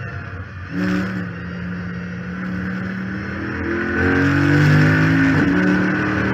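A Chrysler 300 SRT8's 6.4-litre HEMI V8 under track driving, heard from a hood-scoop-mounted camera. It comes in sharply about a second in and holds steady, then pulls harder from about four seconds with the pitch rising, and changes gear just past five seconds. A whine runs over it, which the owner puts down to the failed power steering pump.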